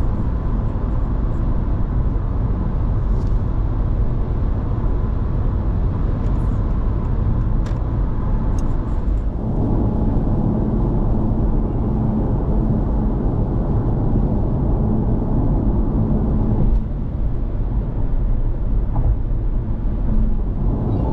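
Honda ZR-V driving at speed, heard inside the car: a steady rush of road and tyre noise with a low drone. A steady low hum joins about halfway through and drops away a few seconds later.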